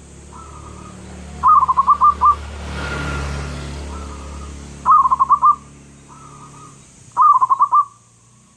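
Zebra dove (perkutut) cooing: three song phrases a few seconds apart, each a soft opening note followed by a quick run of five or six loud coos.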